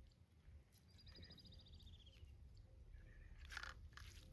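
Faint, a small bird's trill: a rapid run of repeated high notes about a second and a half long, dropping slightly at the end. Near the end come a few crisp crackling sounds of someone eating.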